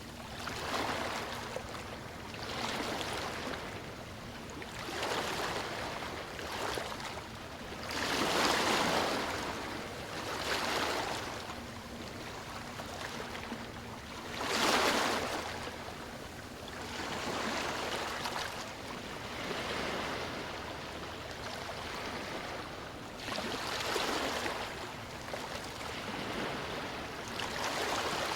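Sea waves washing onto a beach, each surge swelling and fading every two to three seconds, with two stronger breakers about eight and fifteen seconds in.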